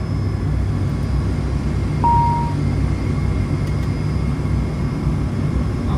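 Steady low drone of an ATR 72-600's twin turboprop engines and propellers, heard inside the cockpit on final approach just past decision minimums. One short electronic beep sounds about two seconds in.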